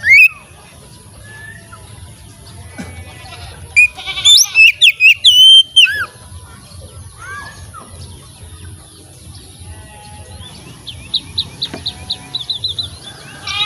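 Oriental magpie-robin singing: a loud run of whistled, sweeping notes about four seconds in, softer scattered calls, then a fast trill of rapidly repeated notes near the end.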